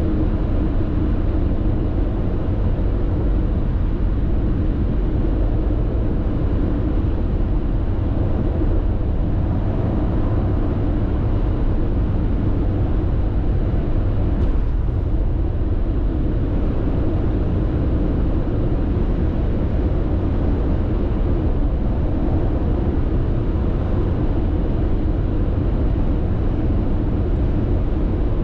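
Steady road noise inside a car cruising at expressway speed: a low tyre-and-engine drone that holds an even level throughout.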